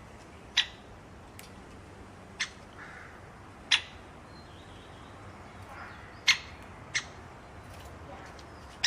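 A bird giving short, sharp chirps, about six single notes at irregular intervals.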